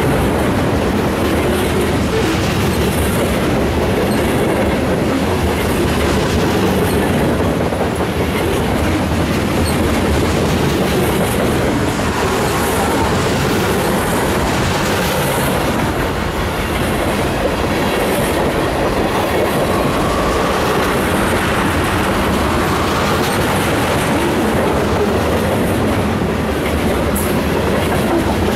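Freight cars (covered hoppers and tank cars) of a Union Pacific train rolling past close by: a steady, loud rumble of steel wheels on rail.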